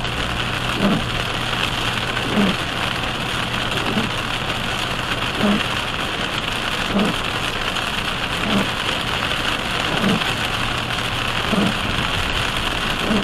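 Heavy rain drumming on a car's windshield and tyres hissing on a wet highway, heard from inside the car. Running over it is a soft low thump about every second and a half from the windshield wipers sweeping.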